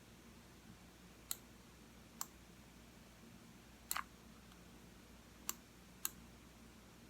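Computer mouse button clicking: single clicks spaced about a second apart, with a quick double click about four seconds in.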